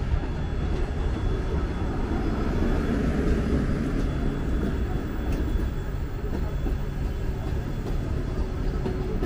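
Passenger coaches of an arriving train rolling past: a steady rumble of wheels on rail, with an occasional faint click.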